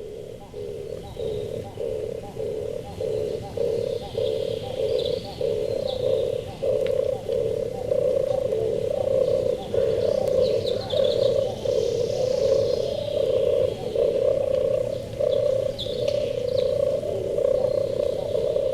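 Turtle dove purring: a deep, rolling purr in pulses about twice a second, growing louder over the first several seconds. Faint high chirps of other small birds sound behind it.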